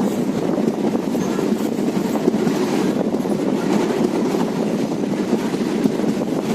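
Steady running noise of an Indian Railways express passenger train heard from inside a coach: a continuous rumble of wheels on the rails with faint irregular clatter.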